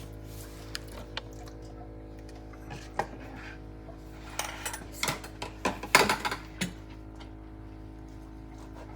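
Spoon and utensils clinking and clattering against a cooking pot while pineapple is added to a simmering sauce: a few light clicks, then a busier run of clatter about four to six and a half seconds in, over a steady low hum.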